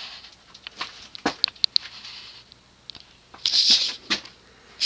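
Light handling noise: a few sharp clicks and taps about a second and a half in, then a brief rustle about three and a half seconds in.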